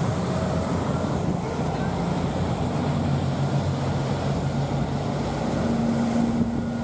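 Steady low drone of a boat's engine, with a steady hum that rises in pitch about two-thirds of the way through, over a hiss of wind and water.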